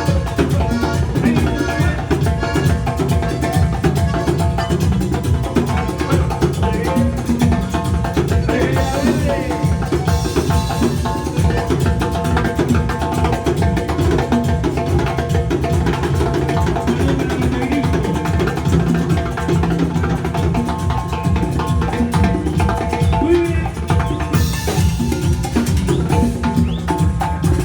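A band playing dance music, led by percussion with a fast, steady beat.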